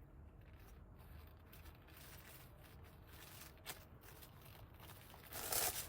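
Soft handling noises with a single sharp click partway through, then a louder rasping scrape starting near the end.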